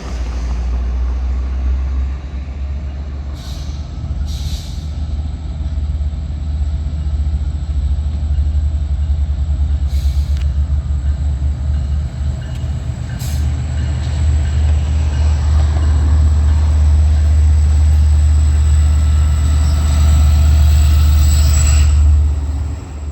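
A train running past: a steady low rumble with a few sharp clicks.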